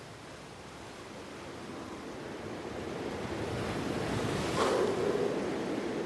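Surf washing onto a beach, growing steadily louder, with a wave surging about four and a half seconds in.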